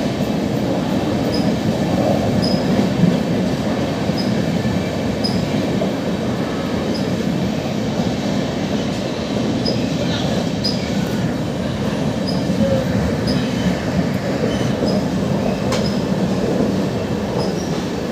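Deccan Queen express coaches rolling through the station at speed without stopping: a steady rumble of wheels on rail.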